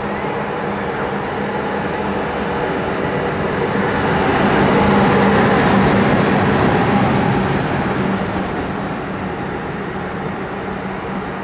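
Freight train hauled by an EA-class electric locomotive rolling past on the track, a steady rumble with a low hum in it. It grows louder to a peak around the middle, then eases off.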